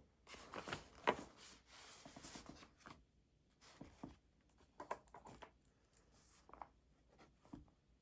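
Quiet rustling and handling of things on a study desk: a couple of seconds of rustling with sharp clicks at the start, then scattered light taps and knocks.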